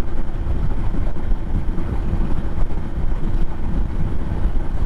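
Adventure motorcycle running at a steady cruise, its engine a low, even rumble with a faint steady hum, under wind rushing over the microphone.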